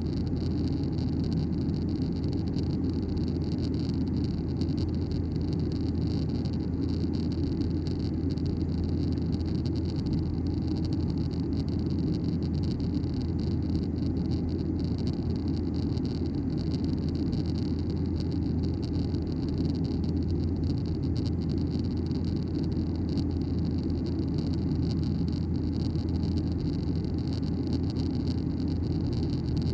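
Steady in-flight cabin noise of a Boeing 737-900ER: the even rush of airflow over the fuselage mixed with the drone of its CFM56-7B turbofan engines, heaviest in the low range and unchanging.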